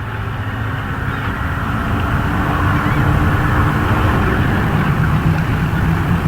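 A vehicle engine running steadily, with a low hum that grows gradually louder.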